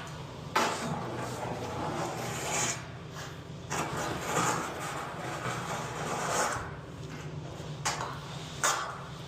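Septic pump truck's vacuum hose sucking the last sludge out of a septic tank, over the steady hum of the truck's engine and vacuum pump. The suction comes in irregular rushing surges, with two short sharp knocks near the end.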